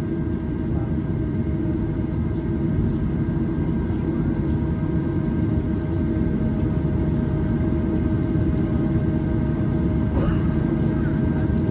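Boeing 737-800 cabin noise: a steady low rumble with a constant whine from the CFM56-7B engines running at low power, heard from a window seat. A short rustle comes about ten seconds in.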